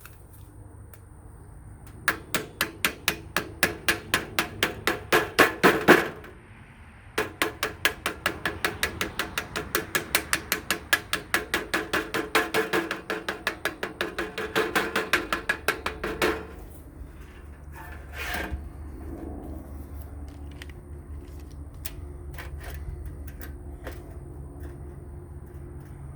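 Rapid hammer blows on thin sheet metal, about five a second, in two runs of several seconds with a short pause between, as a half-inch edge is folded over by hand into a hem. Afterwards a low steady hum with a few light knocks.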